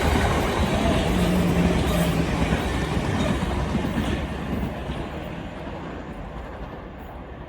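Passenger train running along the track and moving away, its rumble fading steadily, with a brief steady hum about a second in.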